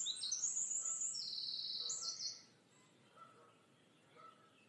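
Small songbird chirping and trilling, a quick run of high notes with a fast repeated trill, lasting about two seconds.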